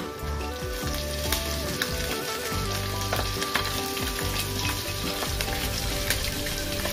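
Chicken bhuna masala frying in a metal kadai: a steady sizzle with many small crackling pops as the thick masala cooks down around the chicken pieces.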